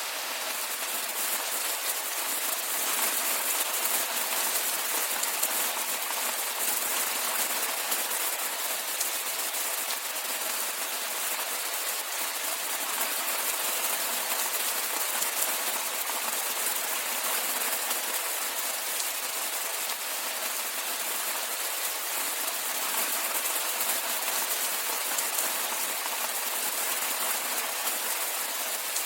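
Steady rainfall, an even hiss of rain with a fine patter of drops on surfaces.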